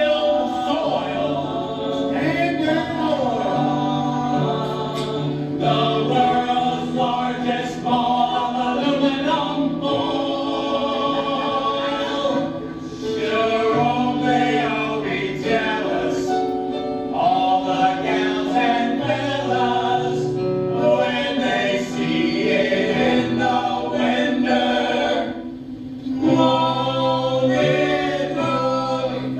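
A group of voices singing a show tune in harmony over instrumental accompaniment, with long held notes and a short break near the end.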